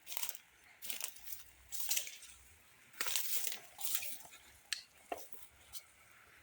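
Footsteps squishing and crunching through wet grass and mud, roughly one step a second.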